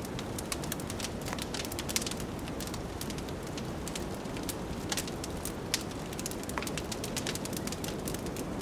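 Wood fire crackling, with many small sharp pops at irregular intervals, over a steady low rush of blizzard wind.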